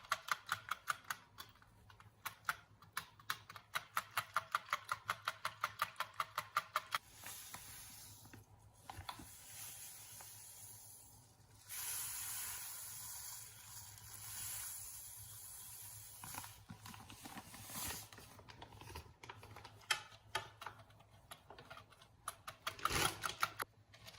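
Typing on a keyboard: fast, even keystroke clicks, about five a second. A steady hiss follows for several seconds, and the typing clicks return near the end.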